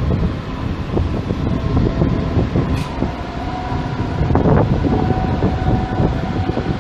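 ICE high-speed train running past on the station tracks: a steady low rumble of wheels on rail, with faint steady whining tones above it and a brief high-pitched squeal about three seconds in.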